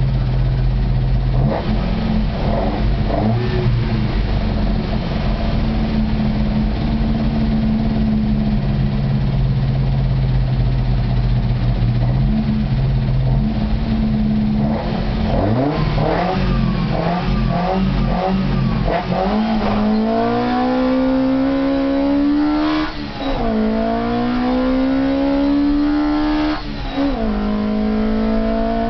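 Fiat 128 hillclimb car's engine heard from inside the cabin, held at steady revs at the start line for about fifteen seconds. The car then launches: the revs flare up and down, then climb steadily through the gears, with two upshifts near the end where the revs drop sharply and rise again.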